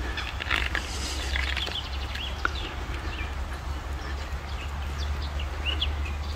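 Several birds chirping and calling in short, quick notes, over a steady low rumble.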